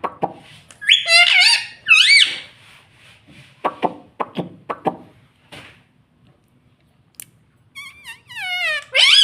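Indian ringneck parakeet calling: loud, high squeaky calls that slide up and down in pitch. A run of short chattering notes follows, then a series of falling calls and more loud squeaks near the end.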